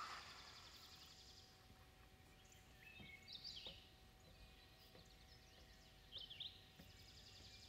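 Near silence: quiet outdoor ambience with a few short bird chirps, about three and a half seconds in and again around six seconds.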